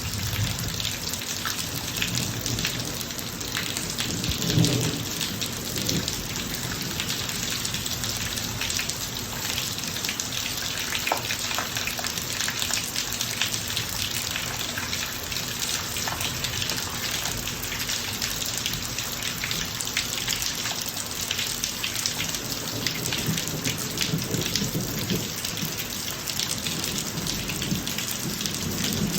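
Heavy rain falling steadily on a driveway, a dense patter of drops, with low thunder rumbling about four to six seconds in and again near the end.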